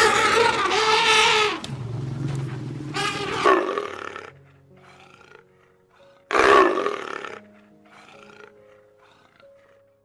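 Loud animal calls: a long pitched call at the start, a shorter one about three seconds in and another about six and a half seconds in, with soft background music of held notes between them.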